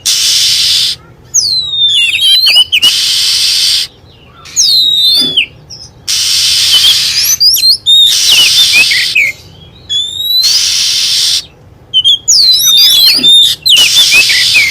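Wild Oriental magpie-robin (kacer) singing, a lure-call recording: phrases of loud, swooping whistles and quick trills every few seconds. Stretches of steady high hiss start and stop abruptly between the phrases.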